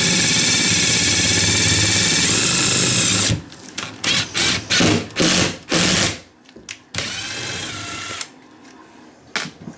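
Power drill driving screws through a metal flange repair ring into the wood subfloor. It runs steadily for about three seconds, then gives about five short trigger bursts, then a shorter, quieter run near the end.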